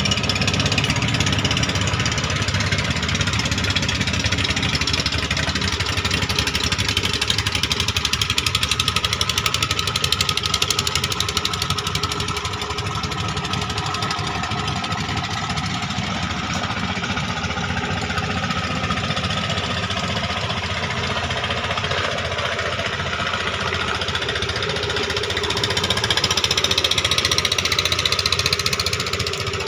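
A klotok riverboat's engine chugging steadily, with a fast knocking beat. It grows louder for a couple of seconds near the end.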